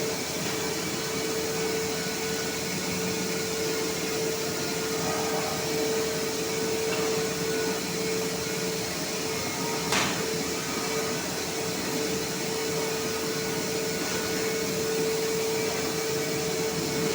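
CNC laser cutting machine running: a steady hiss and hum with a constant high tone, and one sharp click about ten seconds in.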